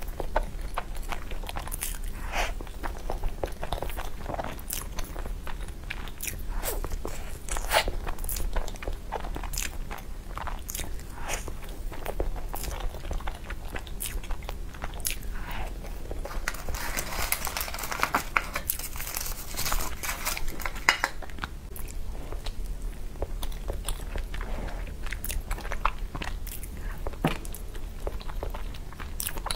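Close-miked eating of a soft chocolate crepe cake: bites and wet chewing with many small mouth clicks, busiest a little past the middle, over a faint steady low hum.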